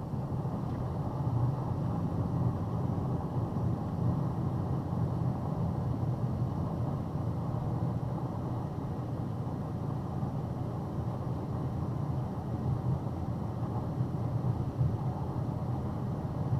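Heavy rain on a car, heard as a steady low rumble with no separate drops.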